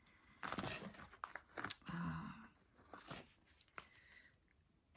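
Irregular crinkling and rustling of packaging being handled, with a few sharp clicks, loudest about half a second in and again around two seconds in.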